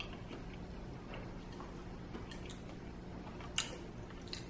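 Quiet eating sounds: faint chewing with a few small sharp mouth or utensil clicks, the clearest about three and a half seconds in.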